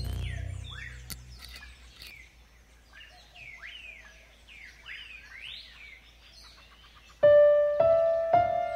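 Background music fades out, leaving birds chirping with quick rising and falling calls, fairly faint. About seven seconds in, music comes back suddenly with three loud struck notes, each held on.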